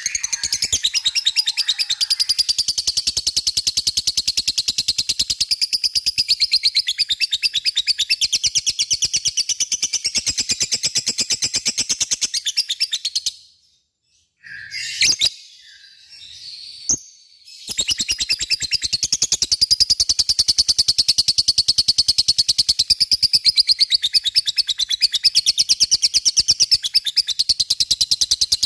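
Lovebird singing its long 'ngekek' chatter: a rapid, high-pitched run of repeated notes. About halfway through it stops briefly, a few short single calls are heard, and then the chatter starts again and carries on.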